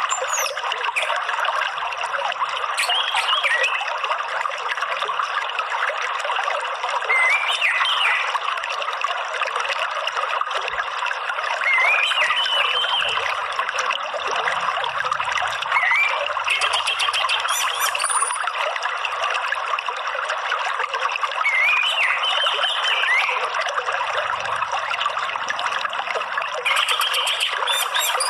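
Steady trickling of running water, with short chirping calls of an orange-headed thrush breaking through every few seconds.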